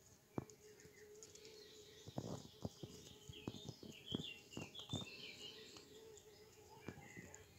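Faint bird chirps, a few short calls in the middle, over a scatter of soft clicks and taps and a low steady hum.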